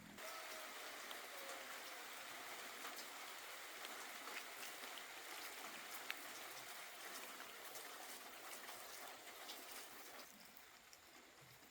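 Rain falling: a steady hiss with many small scattered drop ticks, easing off somewhat near the end.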